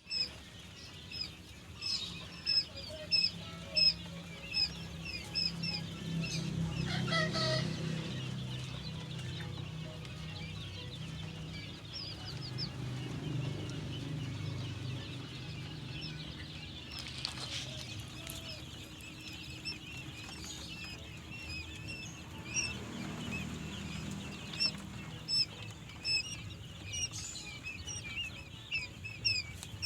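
Many quail chirping at once, short high calls overlapping throughout and thickest near the start and end, over a low steady hum.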